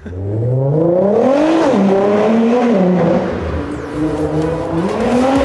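Car engine accelerating. Its pitch climbs over the first second and a half, falls back, dips again around the middle, then climbs once more near the end.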